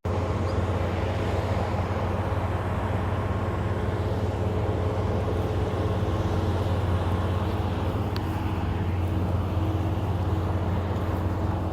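Truck driving at a steady speed: a steady, low engine drone mixed with road noise.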